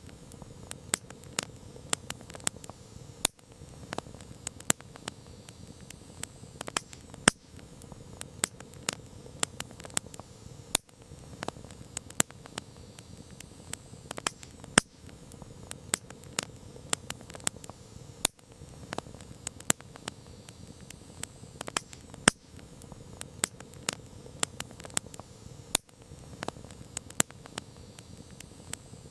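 Campfire crackling: burning wood gives frequent irregular sharp pops and snaps over a steady low hiss of the flames.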